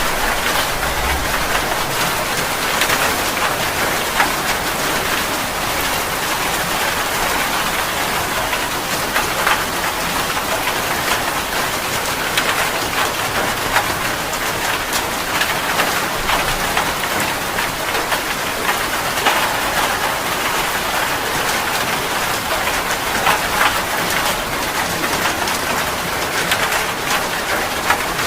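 Heavy rain falling steadily: a dense wash of drops with scattered sharper drop hits.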